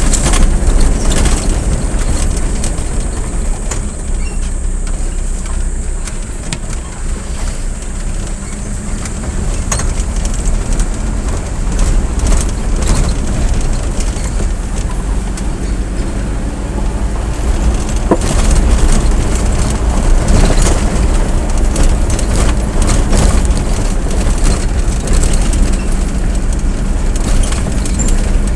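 A vehicle on the move: a steady, loud rumble of road and wind noise with a low engine hum underneath and occasional clicks and knocks.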